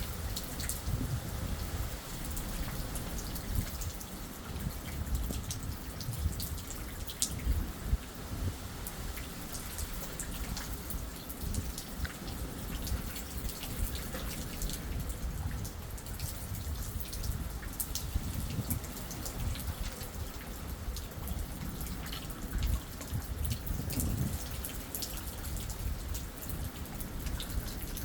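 Rain falling in a thunderstorm, with many individual drops striking close by as sharp little ticks over an uneven low rumble.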